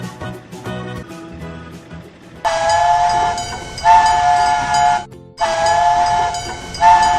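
Cartoon train whistle sounding two long blasts, each about two and a half seconds, separated by a brief break. It starts about two and a half seconds in, after a stretch of upbeat background music.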